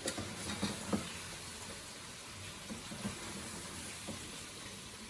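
Chicken and chilli powder frying in oil in a pan, a steady low sizzle, with a few light clicks in the first second.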